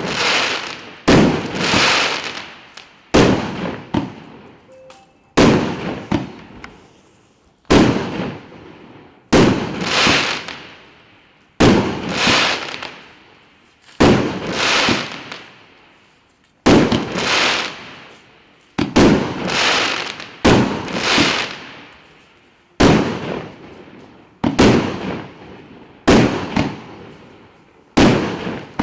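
A large consumer fireworks battery (cake) firing shot after shot: loud bangs every one to two seconds, often in close pairs, each trailing off in a fading crackle.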